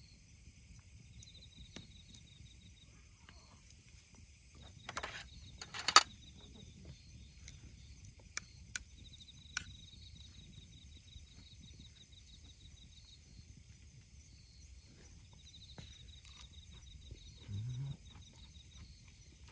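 Autumn night insects, crickets among them, chirping in steady high trills that come and go in pulsed runs. About five to six seconds in there is a cluster of sharp clicks and knocks, and a few lighter clicks follow.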